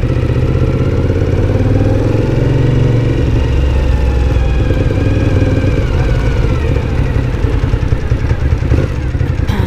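Twin-cylinder motorcycle engine running steadily while riding, its pitch rising a little and then easing back as the throttle changes, heard through a helmet-mounted camera with rumbling wind noise.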